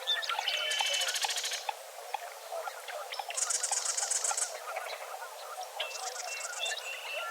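Several wild birds singing in a dawn chorus: a high, rapid trill comes three times, over scattered whistles and many short chirps and calls.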